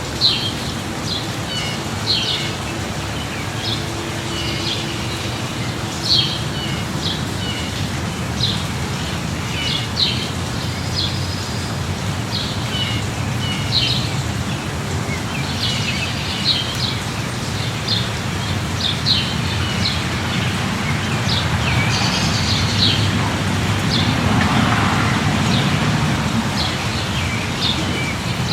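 Steady light rain with small birds chirping again and again. A low rumble swells near the end.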